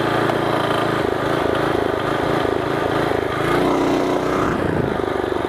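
Small single-cylinder mini bike engines running steadily, with a change in engine speed about three and a half seconds in.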